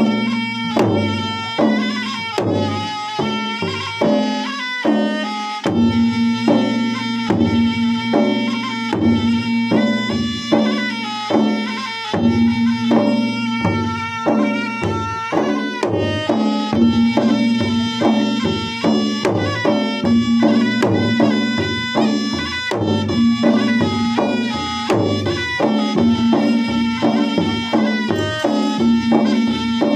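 Traditional Makassar gendang ensemble playing wedding music: drums beaten in a fast, dense rhythm under a reedy wind instrument carrying a melody.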